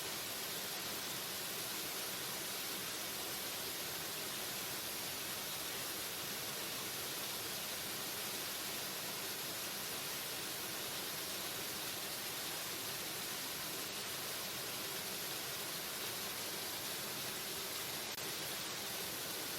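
A waterfall: a steady, even rush of falling water, a constant hiss with no breaks.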